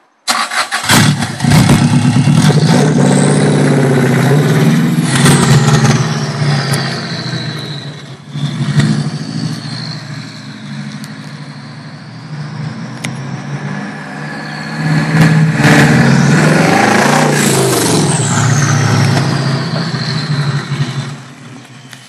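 Subaru Legacy Turbo's turbocharged flat-four engine, with no exhaust behind the downpipe, very loud and revved twice. Each time, a high turbo whistle rises steeply and then winds slowly down as the revs fall.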